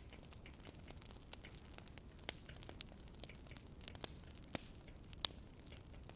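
Burning firewood crackling: irregular sharp pops and snaps, a few louder than the rest, over a low steady hiss.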